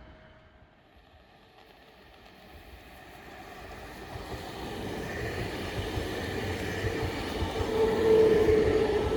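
A Roslagsbanan narrow-gauge electric train approaching, growing steadily louder over several seconds with a steady whine that is strongest near the end.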